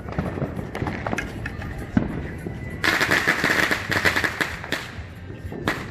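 Fireworks going off: scattered pops and bangs, a sharp bang about two seconds in, then about two seconds of dense crackling, and another bang near the end.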